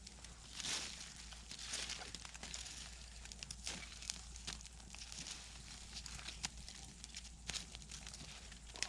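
Faint scattered clicks and rustling, with soft swells of noise about one and two seconds in.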